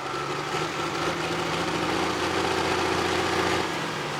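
Turbocharged diesel engine of a super stock pulling tractor running at a steady pitch, with a thin high whine over it at first. The engine sound drops away shortly before the end.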